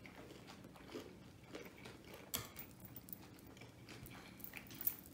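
Close-up eating sounds of two people chewing fried egg rolls: soft wet chewing and mouth clicks with a few sharp crisp crunches, the loudest about two and a half seconds in and near the end.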